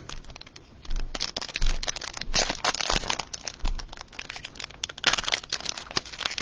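Cellophane wrapper of a trading-card cello pack crinkling and tearing as it is opened, a dense run of irregular crackles.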